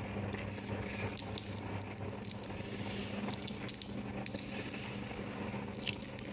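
Close-miked chewing of food: wet, squishy mouth sounds with scattered short clicks, over a steady low hum.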